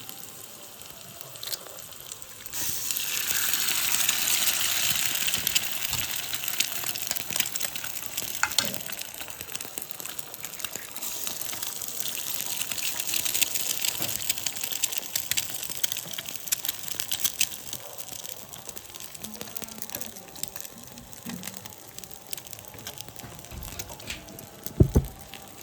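Loud sizzling hiss from a hot street-food pan of frying egg, starting suddenly a couple of seconds in and swelling again about halfway through. A knock near the end.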